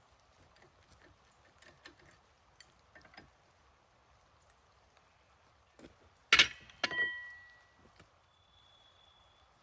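Two sharp metal clanks about half a second apart, the second ringing with a clear tone for about a second, as a steel tool strikes metal. Before them come scattered small knocks and clicks of handling.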